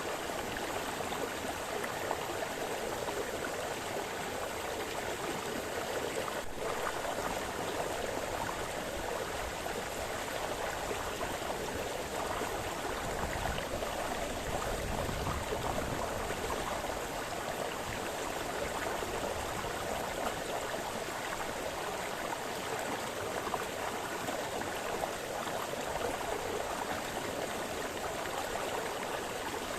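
A forest brook splashing and burbling over stones, a steady running-water sound.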